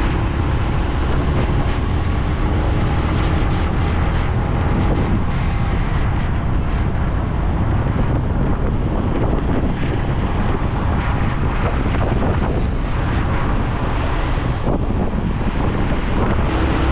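Steady wind rushing over the camera microphone of a moving motorcycle, with the bike's engine and road noise beneath.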